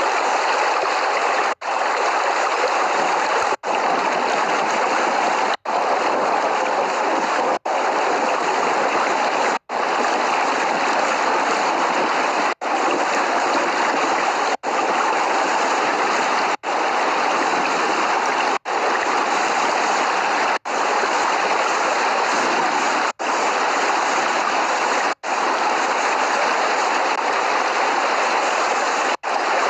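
Steady heavy rain, a dense even hiss with no thunder, broken by very brief dropouts to silence about every two seconds.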